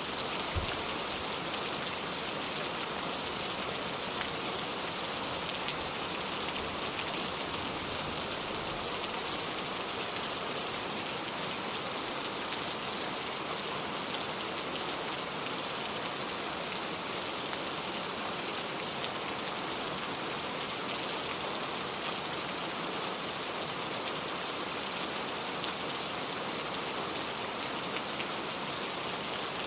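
Steady rain falling, a dense even hiss of drops with faint scattered patters.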